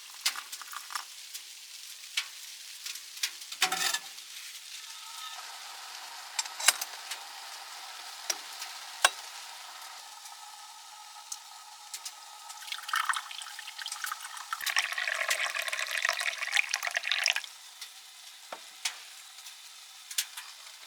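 Food sizzling in a hot pan, a steady hiss with scattered spattering pops, growing louder and denser for several seconds past the middle before settling back.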